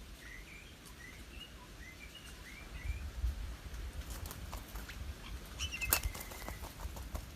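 A small bird giving short rising chirps, then wings flapping and rustling with scattered clicks from about three seconds in, and a sharp snap with a chirp near six seconds.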